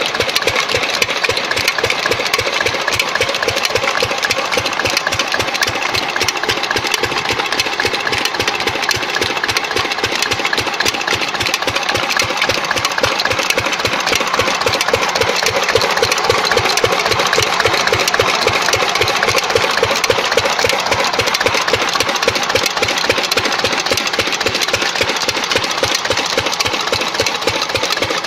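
Old Lister-type diesel engine running steadily, each firing stroke heard as an even, rapid knocking beat.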